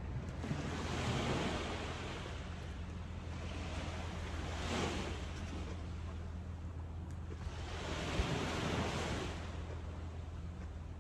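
Ocean waves breaking on the shore, three surges a few seconds apart, with a steady low wind rumble on the microphone.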